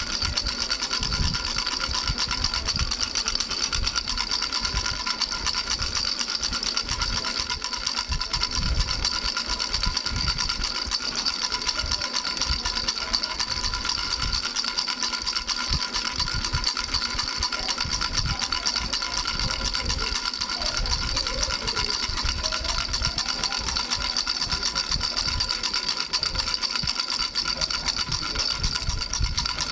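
Baby rattle with three bells shaken rapidly and without pause: a fast, even rattle with steady ringing bell tones over it.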